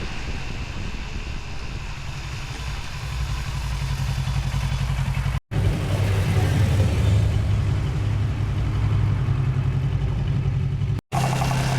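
Motorcycle engine running under way, a steady drone with wind and road noise, louder from about halfway. The sound cuts out completely for an instant twice, about five and a half seconds in and again near the end.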